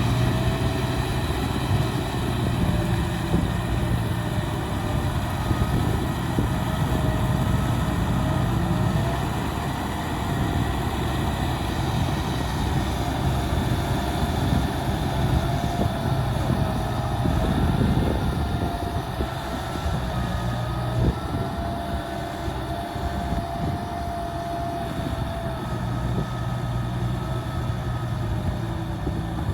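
Heavy diesel machinery engine running steadily, with a high whine over it that wavers slightly in pitch.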